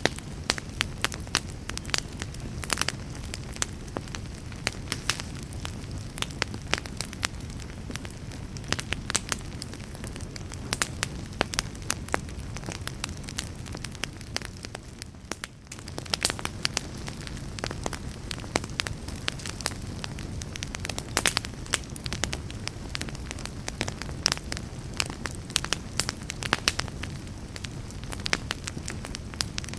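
Campfire burning, with frequent sharp crackles and pops over a low steady rush of the flames. The crackling eases off briefly about halfway through, then picks up again.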